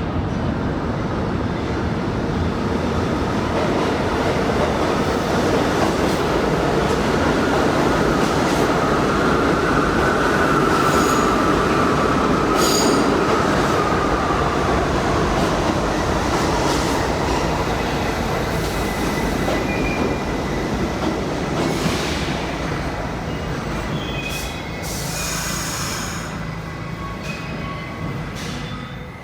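New York City subway train running through the station, its wheels rumbling and squealing. The noise builds to a peak about ten seconds in, then eases off, with short squeaks and clicks near the end.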